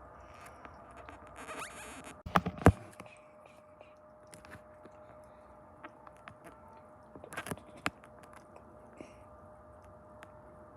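Handling noise from the iPad filming: scattered clicks, taps and rubbing, with two loud knocks about two and a half seconds in and a faint steady hum underneath.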